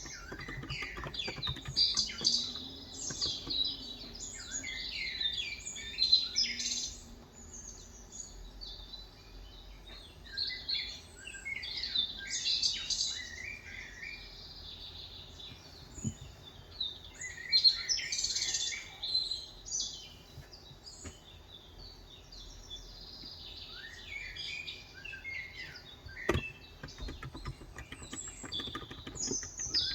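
Small birds chirping and twittering in repeated flurries of quick, high notes, with short lulls between them. A sharp click sounds once near the end.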